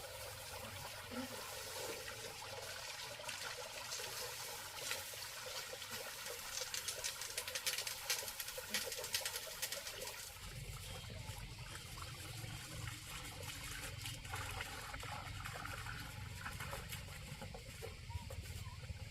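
Faint trickling water with scattered light clicks. About halfway through, the higher hiss fades and a low rumble comes in.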